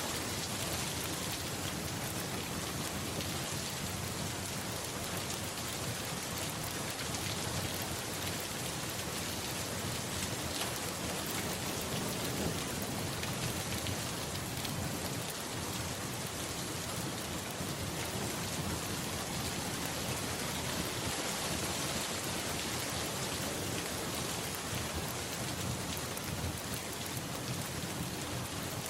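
Steady, even rainfall, with low rolls of distant thunder swelling under it now and then.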